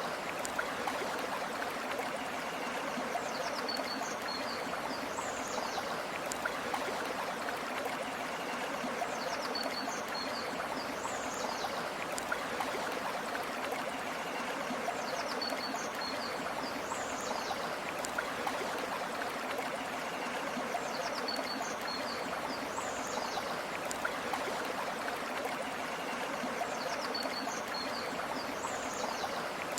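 Steady rush of a flowing river or stream. A bird call, a few quick chirps and a falling whistle, comes back about every six seconds in the background.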